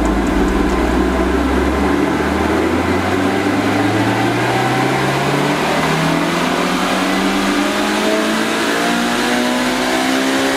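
Blacktop 20-valve 4A-GE four-cylinder engine making a full-load dyno pull through a decat exhaust. The revs start low and then climb smoothly and steadily, without a break.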